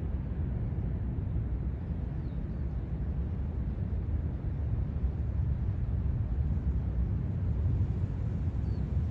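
Steady low rumbling noise with no distinct events, and a few faint short high chirps about two seconds in and near the end.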